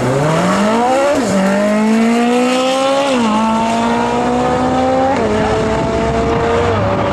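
Ferrari 458 Speciale A's 4.5-litre V8 accelerating hard from a standing start, its pitch climbing steeply and then dropping at four quick upshifts, with each gear pulling more slowly.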